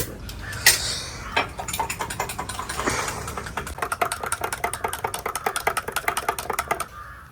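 A spoon stirring lemon sharbat in a glass: a fast, even run of clinks, about ten a second, for roughly five seconds, after a few single knocks at the start.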